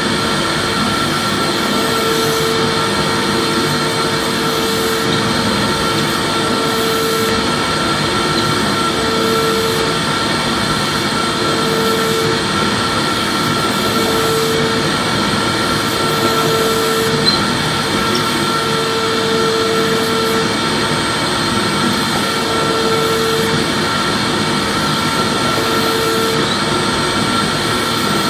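Vacuum cleaner running steadily: a constant rushing hiss with a steady motor whine, and a low hum that comes and goes about every two seconds.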